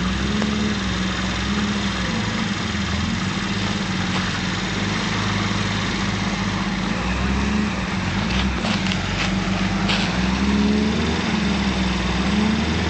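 Suzuki Santana 4x4's engine running steadily, its pitch wavering slightly up and down, with a few brief sharp sounds about eight to ten seconds in.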